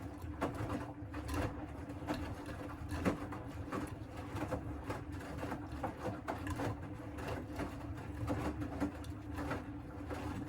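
Siemens WM14T490 washing machine running mid-cycle: a steady motor hum and low rumble with irregular clicks and knocks from the turning drum. The drum bearings are damaged.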